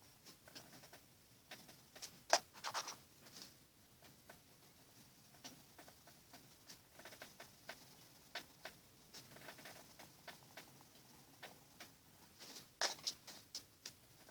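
Faint scratching and tapping of a coloured pencil on paper in short strokes, with two louder runs of quick scratches, one about two seconds in and one near the end.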